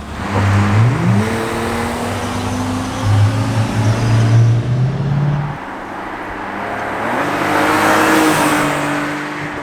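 1995 BMW E36 M3's straight-six engine on its stock exhaust, revving up and pulling twice. The pitch climbs just after the start and drops about halfway through, then climbs again and eases off near the end.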